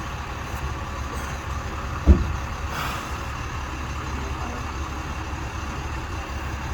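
A large truck's engine idling with a steady low rumble, and a single sharp thump about two seconds in.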